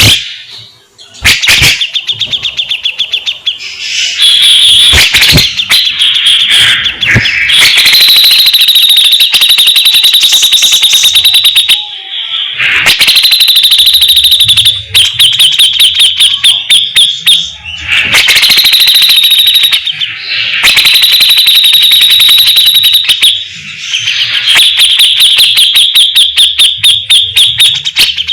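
Cucak jenggot (grey-cheeked bulbul) singing loudly in long, fast rattling bursts of rapidly repeated harsh notes, the 'besetan' song, broken by brief pauses.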